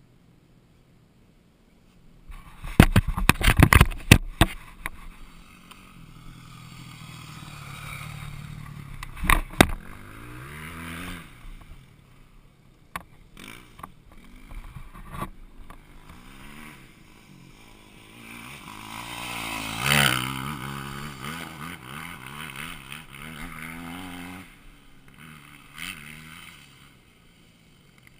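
Dirt bike engine running, revving up and down in repeated sweeps as the bike rides, with a burst of heavy thumps and rushing noise on the microphone near the start.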